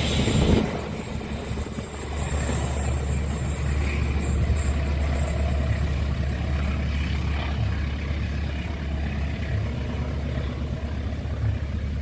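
Loud train noise at a level crossing stops about half a second in, leaving a steady low engine rumble.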